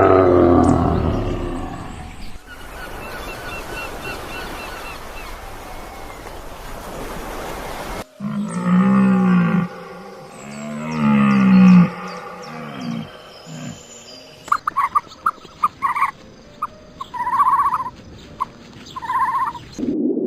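A series of different animal calls, one clip after another: a drawn-out pitched call fading away at the start, then a stretch of hiss, then two loud calls that rise and fall in pitch, and short repeated higher calls near the end.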